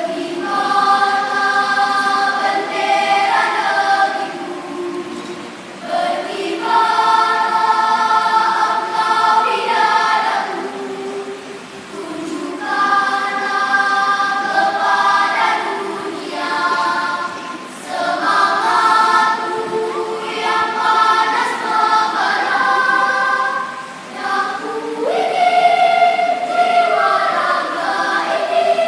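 Primary-school children's choir singing in parts, held chords in phrases of about five to six seconds with short breaks for breath between them.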